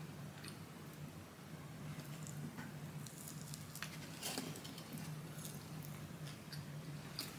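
Quiet chewing and mouth sounds of a person eating fried chicken, with faint scattered clicks, over a low steady hum.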